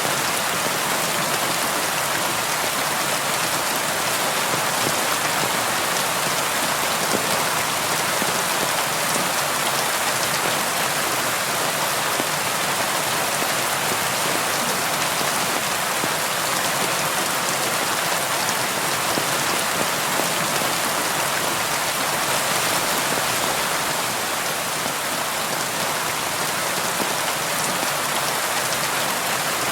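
Steady rain falling on window glass: an even hiss of many drops with an occasional sharper drop tick.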